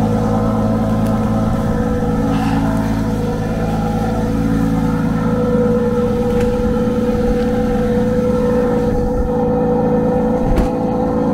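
Aston Martin engine idling steadily, just after a cold start in freezing weather. A single sharp knock comes near the end.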